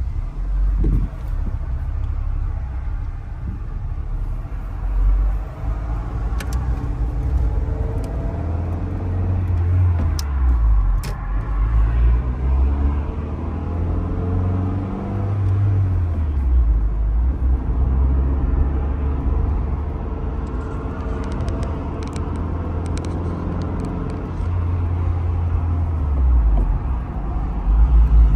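Honda Civic del Sol's four-cylinder engine and road rumble heard from inside the cabin while driving. The engine note climbs in pitch and drops back several times as the car speeds up and eases off.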